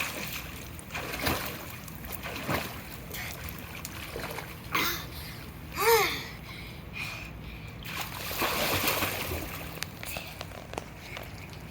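Pool water splashing and sloshing in irregular surges as a child swims and kicks. About halfway through, a short, high voice call rises and falls.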